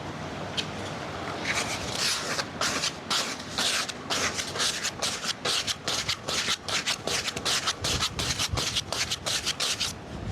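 Rapid, rhythmic scraping strokes, about three or four a second, starting about a second and a half in and stopping shortly before the end.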